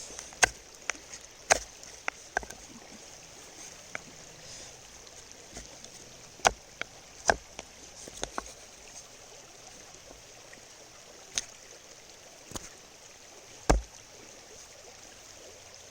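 Knife carving a piece of wood, short sharp cuts at irregular intervals, over the steady rush of a flowing river.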